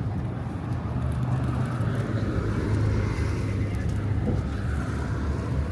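Road traffic passing, a steady low rumble of car engines and tyres under general street noise.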